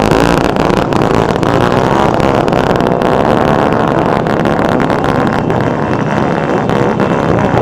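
Many motorcycle engines running at once, their notes overlapping and wavering in a dense, steady mass of engine sound.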